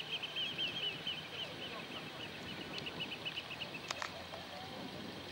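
A bird calling in a rapid run of high piping notes that slow and fade away about three seconds in, over faint steady outdoor background noise; a single sharp click near the four-second mark.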